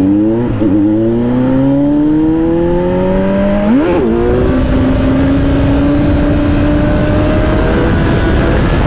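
Kawasaki Z900's inline-four engine pulling under acceleration, its pitch rising slowly. About four seconds in it gives a brief sharp rev, then runs on at a steady, slightly climbing pitch.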